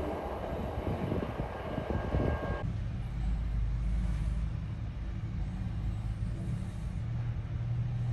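A Sounder commuter train rolling past on the tracks. About two and a half seconds in it cuts off sharply, and a steady low rumble of a heavy diesel truck idling follows.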